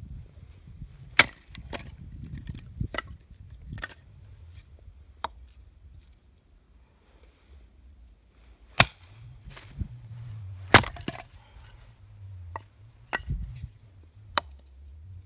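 Dry wood snapping and cracking in sharp, irregular cracks, about ten in all, with the loudest about a second in and two more near the middle.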